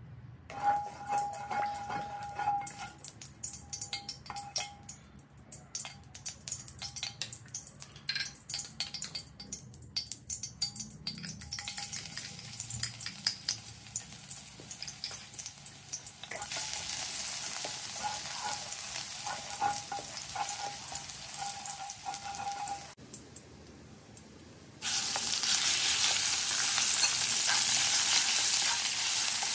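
Hot cooking oil frying in a non-stick wok: it crackles and pops at first, then settles into a steady sizzle as garlic and dried chilies fry. About 25 seconds in the sizzle jumps much louder as slices of beef go into the oil and are stir-fried.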